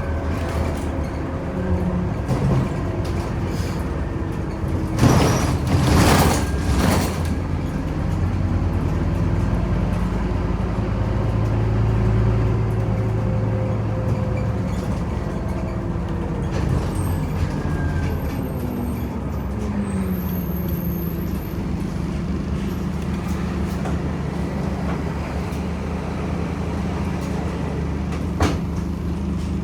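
Scania OmniCity city bus running on the road, heard on board: a steady engine hum that rises and falls in pitch as it drives. About five seconds in come several short, loud bursts of air hiss from the bus's pneumatics, and a sharp click sounds near the end.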